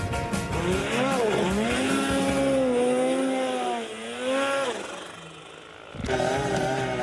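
A small engine revving up and down, with music under it; the engine sound fades about five seconds in and cuts back in sharply about a second later.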